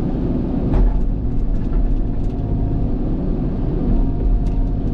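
Cat excavator's diesel engine running steadily with a low rumble, with a few light clicks and rattles.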